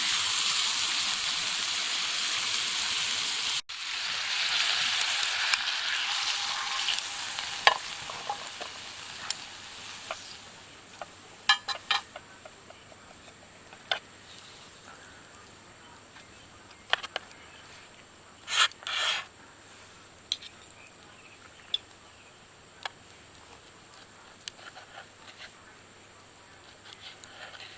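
Meat sizzling over a wood fire, loud at first and then dying away over about ten seconds. After that, scattered sharp crackles and pops remain, with a louder pair of pops about two-thirds of the way in.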